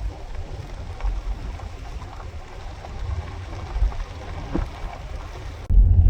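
Dodge Grand Caravan minivan driving: steady tyre, road and wind noise with a low rumble and a few small ticks. Near the end it switches abruptly to a louder, deeper, muffled rumble.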